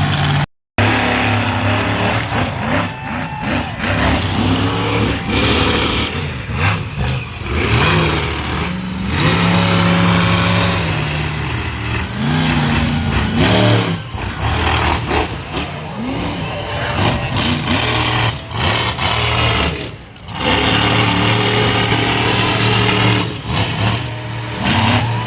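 Monster truck engine revving hard, its pitch climbing and dropping again and again, with a brief dip about twenty seconds in.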